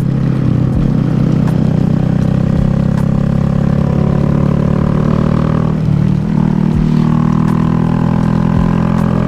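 Honda Grom motorcycle engine running steadily under way, over wind and road noise. The engine note briefly dips about six seconds in, then carries on.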